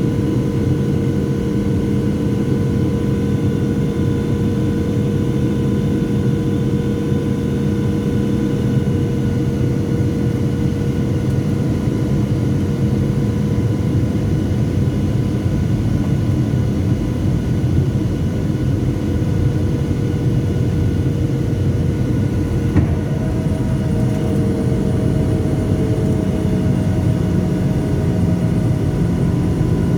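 Cabin noise inside a Boeing 737-700 in flight: a steady rumble of airflow and CFM56-7B turbofans with several steady engine tones. A click about 23 seconds in, after which the engine tones shift in pitch.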